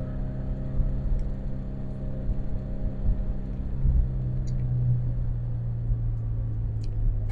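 Toyota 86's flat-four boxer engine running steadily under way, with road rumble, heard inside the cabin. The engine note swells a little about four seconds in.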